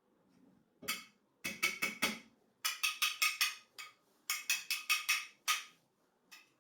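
Sharp taps in quick runs of three to five strikes, several a second, with short pauses between the runs.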